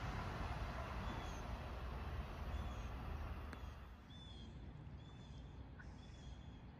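A train's rumble fades away as it leaves, over the repeated short, high chirps of a bird calling about once a second.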